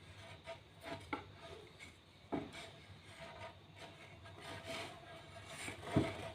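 Wood being rubbed and handled, with a few light knocks of wood on wood, the sharpest near the end.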